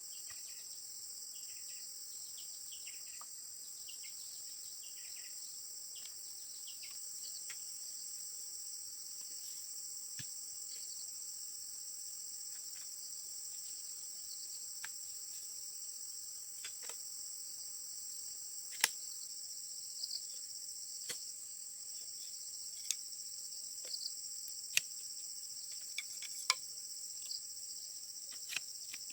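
Steady high-pitched chorus of insects, with scattered sharp clicks or knocks, more of them in the second half.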